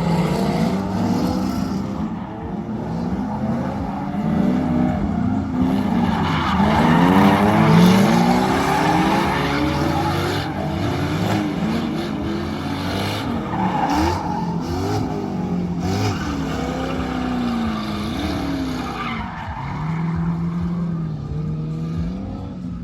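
Drift cars' engines revving hard, their pitch swinging up and down again and again as the throttle is worked, with tyres squealing as the cars slide. More than one engine is heard at once, loudest about seven seconds in.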